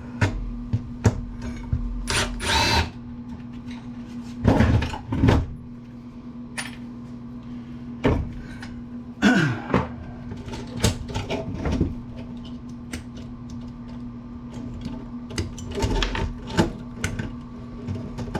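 Screwdriver and metal parts knocking, clicking and scraping as the transformer is worked loose from an amplifier chassis, with a few louder rattling scrapes. A steady hum runs underneath.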